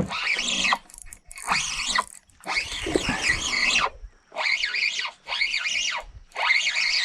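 Fishing reel cranked hard in short spurts while fighting a hooked snakehead: about six whining runs of the reel's gears, each rising and falling in pitch with the speed of the crank, separated by brief pauses.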